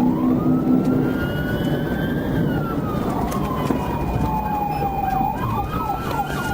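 Police car siren wailing in a slow rise and fall, then switching to a rapid yelp near the end, over the road and engine noise of a patrol car in a high-speed pursuit.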